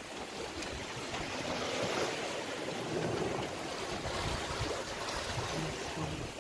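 Sea water rushing and splashing along a sailboat's hull in gently swelling surges.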